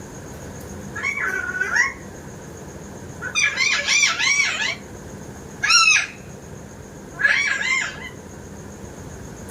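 Pet parrots calling in four bursts of high-pitched calls, each call rising and falling in pitch.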